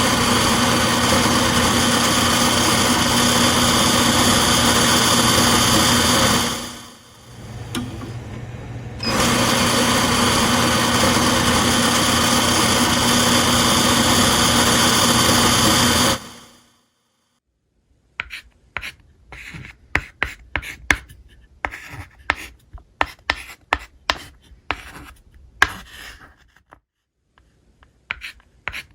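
A small electric motor runs loudly and steadily with a constant hum. It winds down about six seconds in, starts again about two seconds later, and cuts off for good near the middle. Irregular short scratching and tapping sounds follow.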